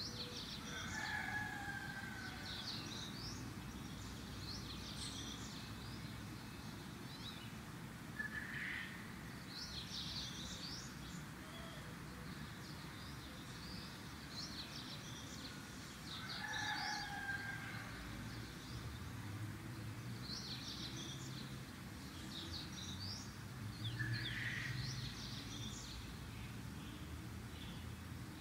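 Birds chirping: clusters of quick high chirps with a lower whistled call among them, recurring about every eight seconds.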